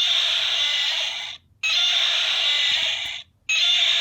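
A Douglas Tyrannosaurus rex plush toy's electronic sound box playing a recorded dinosaur roar three times in a row, each about a second and a half long with short gaps between. The roar is thin and bright with no deep bass; the uploader calls it a funny roar.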